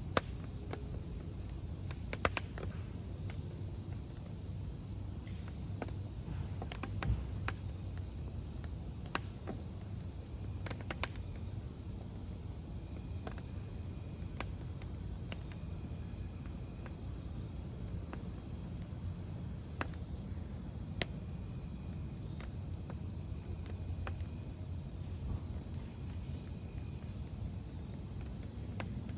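Crickets chirping in a steady high trill over a crackling wood campfire, with occasional sharp pops from the burning logs.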